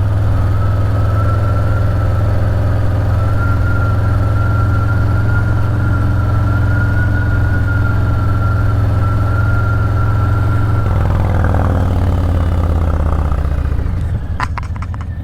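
Harley-Davidson Street Bob's V-twin idling steadily through a Two Brothers 2-into-1 exhaust, with a thin high whine over it. About eleven seconds in, the whine stops and the engine note shifts, and the sound fades out near the end.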